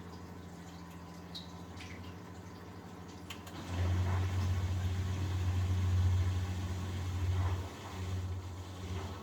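1971 Constructa Garant 491 washing machine in its wash cycle: a steady low hum with a few faint drips, then a little under four seconds in the drum motor comes on louder with water and laundry sloshing in the drum, easing off briefly near the end before it carries on.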